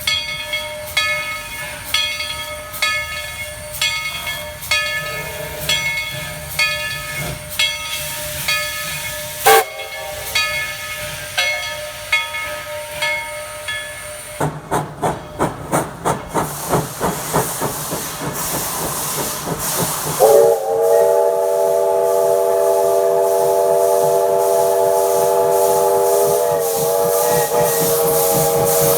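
A steam locomotive's bell ringing steadily, then a quick run of exhaust chuffs. About two-thirds of the way in, a multi-note chime steam whistle starts and sounds one long blast, wavering once near the end, over steam hiss.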